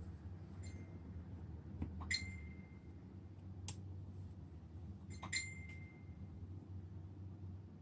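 Scattered light clicks and clinks of small tools handled against a phone's glass and work surface, four in all, three of them with a short ringing note, over a steady low hum.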